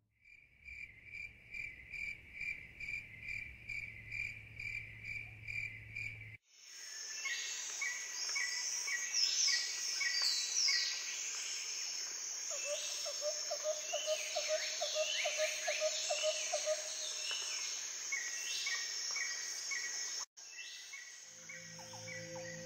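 Tropical forest ambience. First comes an insect chirping in even pulses about two and a half times a second. Then, after a cut, a dense chorus of birds calls in repeated whistled notes and falling chirps over a steady insect buzz. Near the end, music with ringing, bowl-like tones comes in.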